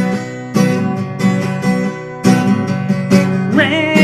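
Acoustic guitar strummed, chords struck about once a second and left ringing; a held, wavering sung note comes in near the end.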